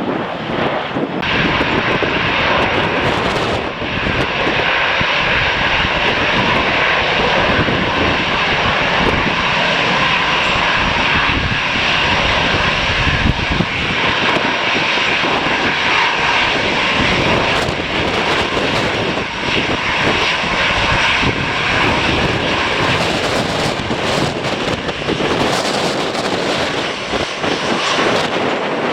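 An airliner's engines running loud, with a steady whine in the upper range that swells just over a second in. Gusts of wind buffet the microphone throughout.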